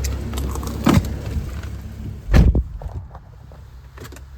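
Footsteps and a knock, then a heavy car door thud about two and a half seconds in. After the thud the low steady rumble in the background drops away.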